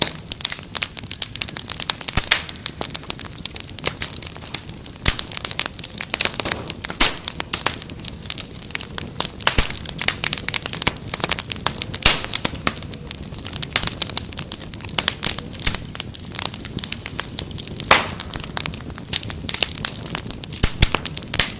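Wood fire crackling, with frequent sharp irregular pops over a low steady rumble.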